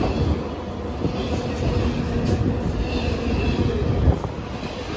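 BNSF freight train of autorack cars rolling past at close range: a steady rumble and clatter of steel wheels on rail, with a single heavy thump about four seconds in.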